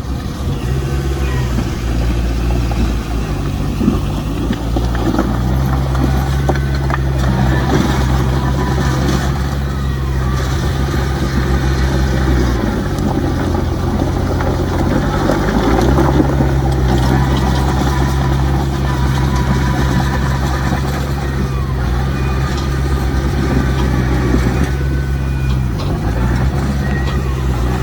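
Heavy diesel earthmoving machinery running steadily, its engine pitch dropping and shifting about halfway through and again near the end, with rough scraping noise underneath.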